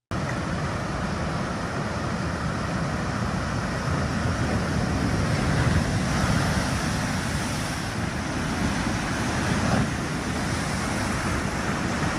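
Seawater from an ocean overflow surging through flooded coastal streets: a steady rushing of waves and strong currents, mixed with wind.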